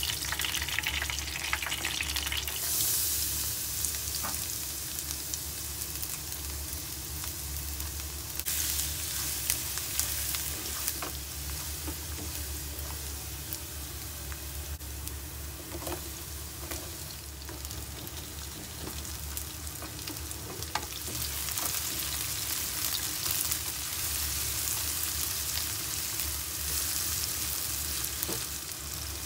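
Minced garlic and sliced onions frying in hot oil in a nonstick pan, sizzling steadily while a wooden spoon stirs them, with a few sharp clicks of the spoon against the pan.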